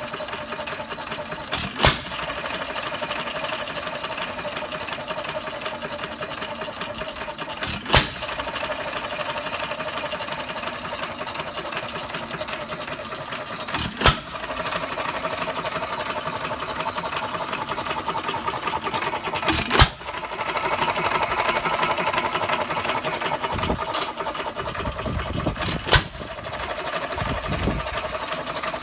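1 1/2 hp Hercules single-cylinder hit-and-miss engine running unloaded: a steady mechanical clatter while it coasts, broken by a sharp firing bang about every six seconds, six in all, the last two closer together near the end.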